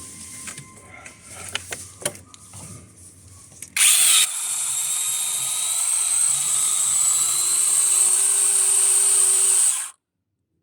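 A few light knocks and handling sounds, then about four seconds in a TPLC S07A brushless battery chainsaw with a 6-inch bar starts abruptly and runs with a steady high whine as it cuts a short log section, stopping suddenly near the end.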